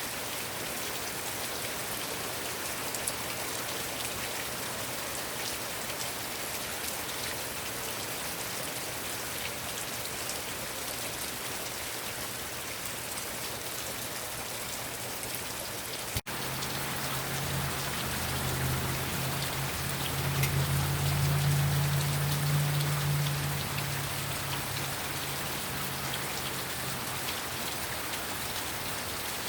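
Heavy rain falling steadily. About halfway through the sound drops out for an instant, then a low hum swells for several seconds and fades away under the rain.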